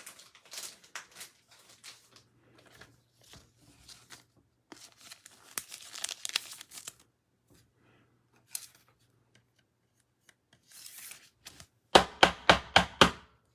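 Foil trading-card pack being torn open, the wrapper crinkling, in scattered short rustles and crackles. About twelve seconds in comes a quick run of about six sharp, loud strokes.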